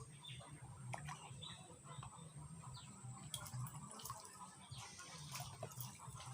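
Faint water dripping and trickling, with scattered small clicks and a few short high chirps.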